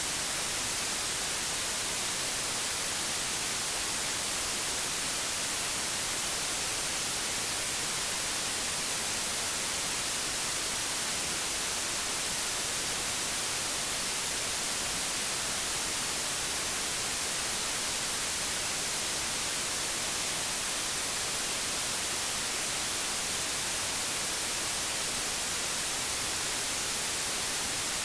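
Static hiss of an untuned old television, a steady, even hiss that is brightest in the treble and never changes.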